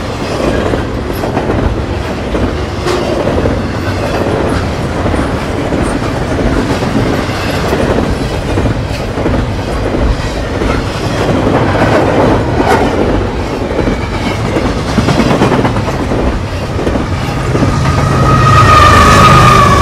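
Double-stack intermodal freight train rolling past at speed, its steel wheels clacking and clicking over the rail joints in a steady rush. Near the end a diesel locomotive at the tail of the train goes by, swelling the sound with a deep engine drone and a steady high tone.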